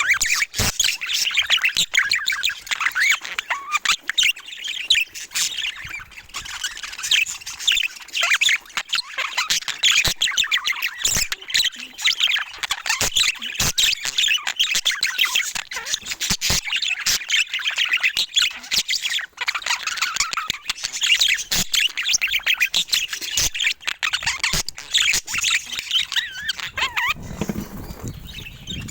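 Budgerigars chattering: a dense, continuous stream of fast chirps and squawks, with many short clicks mixed in and a lower-pitched call near the end.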